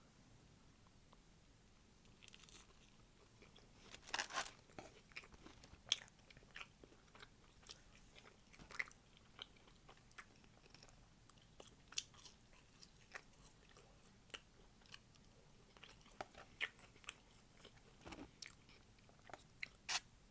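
Close-up chewing and crunching of hard hush puppies: a string of short crunches and mouth clicks, loudest about four and six seconds in and again near the end.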